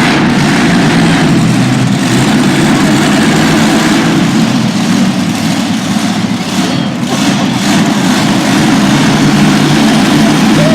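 Monster truck engine running loud and steady under throttle.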